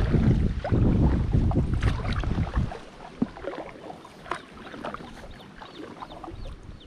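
Water splashing and dripping from kayak paddle strokes alongside an inflatable drop-stitch kayak, with wind rumbling on the microphone for the first few seconds. Near the end comes a run of short, high chirps.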